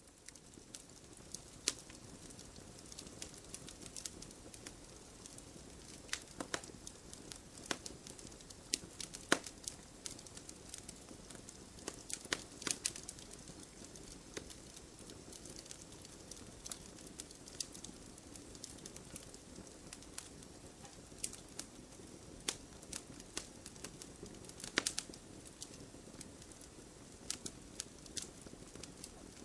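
Wood campfire crackling: a steady low hiss of burning logs with irregular sharp pops and snaps, a few louder ones standing out.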